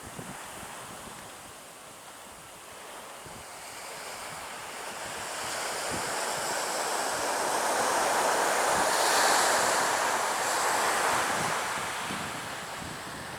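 Surf breaking and washing up the beach, a rushing hiss that swells to a peak about two-thirds of the way through and then recedes, with wind buffeting the microphone.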